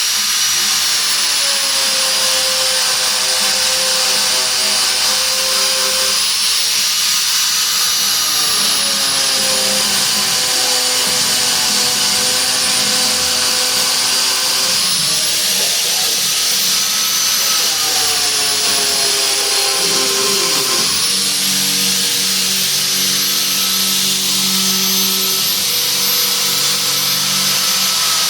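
High-speed power tool whining steadily as it shaves rubber off a garden tractor tire. Its pitch shifts every few seconds as the load on it changes.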